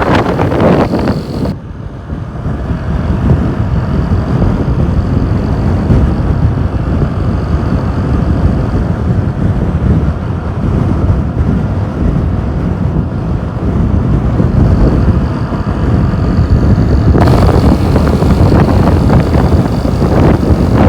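Heavy wind buffeting the microphone over the low rumble of a motorcycle under way. The wind grows harsher and hissier in the first second or so and again for the last few seconds.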